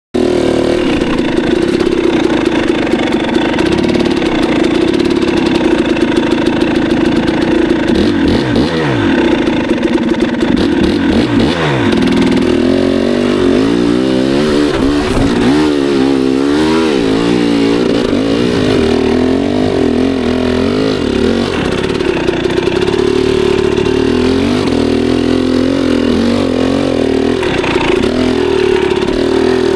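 Two-stroke enduro dirt bike engine running hard, a steady loud drone whose pitch rises and falls quickly with the throttle, most of all about halfway through.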